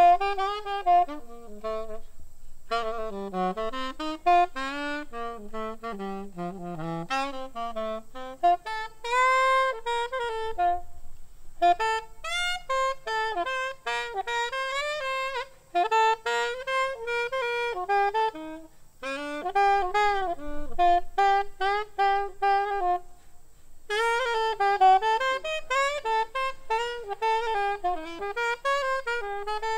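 Solo saxophone playing an unaccompanied jazz line: quick runs of notes in phrases separated by short pauses.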